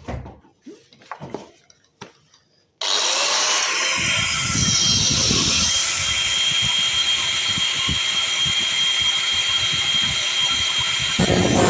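Power drill boring into a concrete wall for an anchor bolt: it starts suddenly about three seconds in with a steady whine over rapid knocking, and stops shortly before the end.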